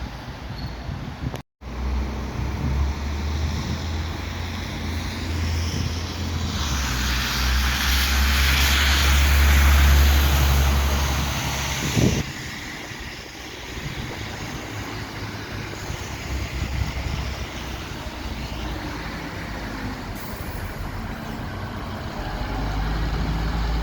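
Heavy diesel bus engine running close by, with a low rumble; it is loudest from about seven to twelve seconds in, with a rushing hiss, then gives way to quieter street traffic.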